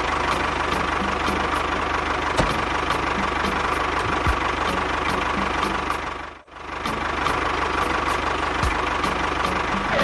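A small engine running steadily with a regular knocking beat. It drops out briefly about six seconds in, then runs on.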